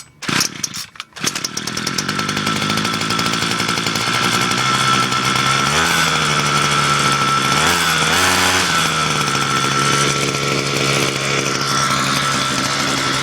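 Brand-new Ryobi Expand-It string trimmer's small gas engine cold-starting: a couple of short pulls on the starter cord, then it catches about a second and a half in and runs. Its speed wavers twice before it settles into a steady idle.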